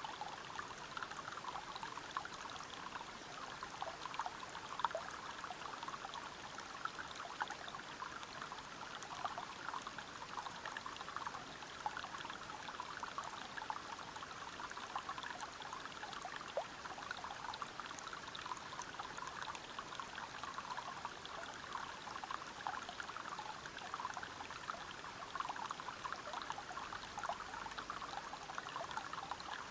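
A forest river spilling over rocks in a small waterfall: a steady rush of water full of small splashes and gurgles.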